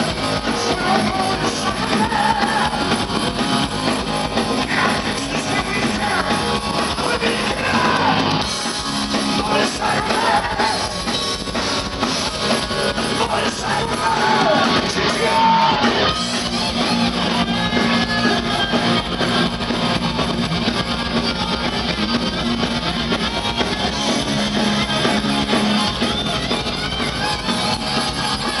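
Heavy metal band playing live: loud electric guitars and drums with sung vocals.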